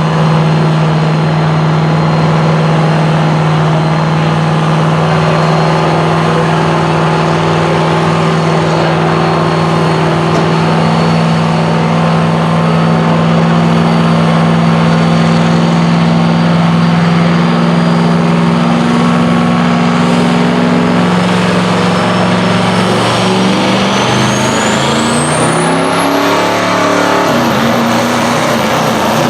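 Turbocharged diesel pulling truck running at full load down the track, a steady engine note with a turbo whistle that climbs slowly, then sweeps sharply up in pitch near the end and holds high.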